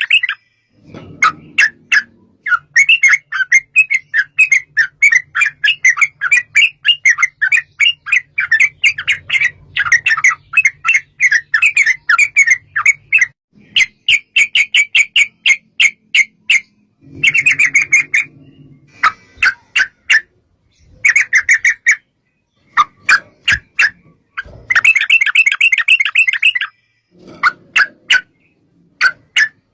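Yellow-vented bulbul (trucukan) song: loud, rapid bubbling chirps run together into long trilled phrases, with short pauses between them.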